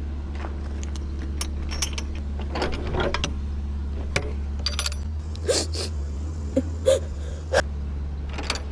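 Semi truck's diesel engine idling as a low steady hum, with a scattering of sharp metallic clicks and clinks and a few short squeaks over it, loudest from about five seconds in.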